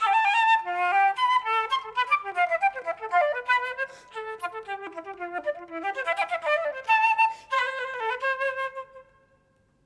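Flute playing a quick passage of many short notes, then a long held note that dies away about nine seconds in.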